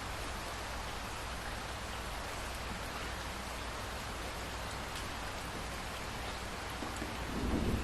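Steady rain falling, an even hiss of drops. Near the end a low rumble of thunder begins to build.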